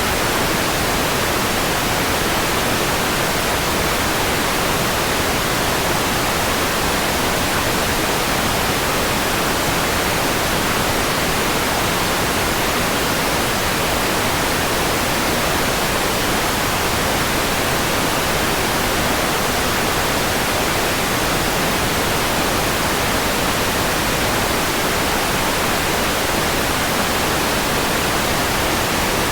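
Steady, even white noise hiss with no change in level or texture.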